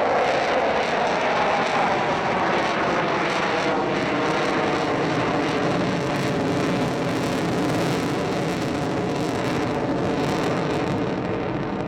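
Avro Vulcan jet bomber's four Rolls-Royce Olympus turbojets, a loud, steady jet noise that eases off slightly near the end.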